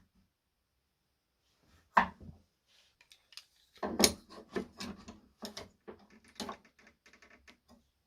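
Wooden knocks and clatter as wood is handled in a workshop: one sharp knock about two seconds in, then a run of lighter, irregular knocks and taps.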